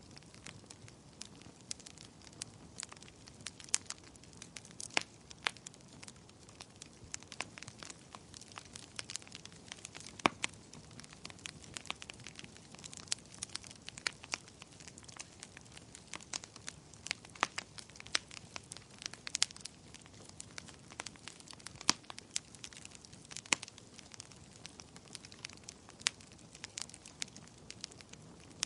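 Fireplace fire crackling: irregular sharp pops and snaps of varying loudness over a soft low hiss.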